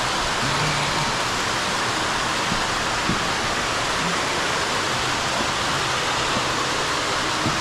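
Steady rush of flowing water in a small cave, an even hiss with no breaks.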